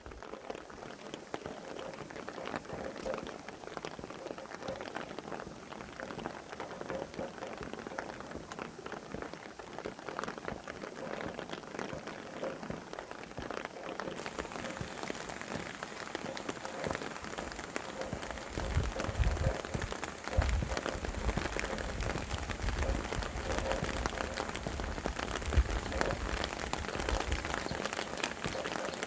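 Steady rain with many individual drops striking a surface close by. From about two-thirds of the way in, wind gusts add an uneven low rumble.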